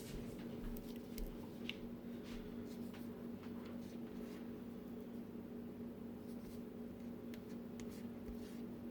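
Faint soft strokes and light ticks of a pastry brush spreading softened butter over rolled dough, over a steady low electrical hum.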